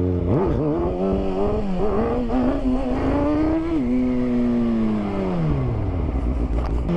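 Motorcycle engine revved hard as the bike pulls away, its pitch jumping up quickly, dropping suddenly a little before four seconds in, then falling away steadily as the throttle is rolled off.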